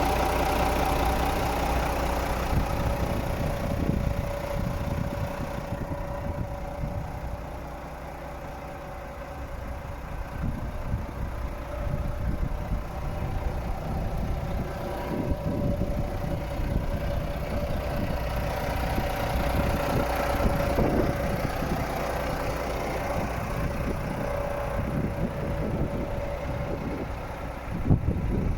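Renault Premium 380 truck's diesel engine idling steadily, growing quieter for a few seconds about a third of the way through before coming back up.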